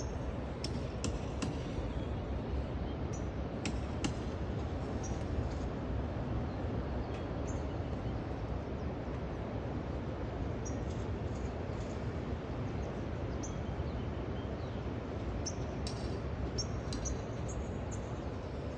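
Steady rush of ocean surf, with brief high bird chirps here and there.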